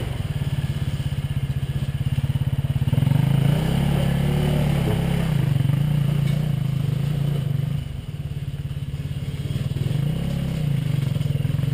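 Enduro motorcycle engine running at a steady idle, its revs rising and falling briefly twice.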